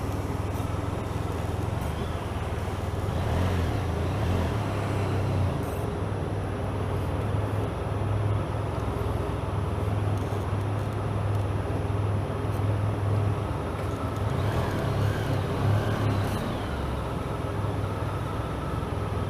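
Motorcycle engine running steadily, a constant low hum under road and vehicle noise.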